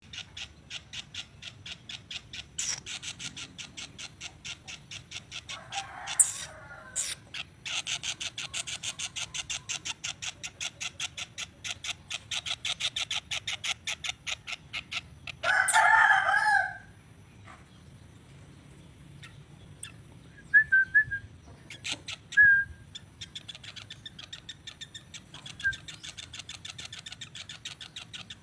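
Caged songbird calling in long, rapid runs of sharp repeated chirps. The run breaks off about halfway, after a louder call that sounds like a rooster crowing once, then resumes near the end.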